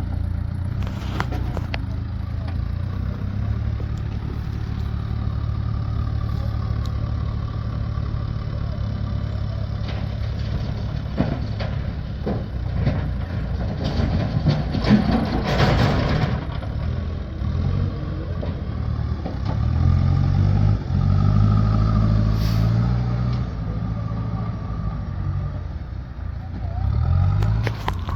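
A large engine running steadily, with its pitch rising and falling for a few seconds about two-thirds of the way through, and a few knocks.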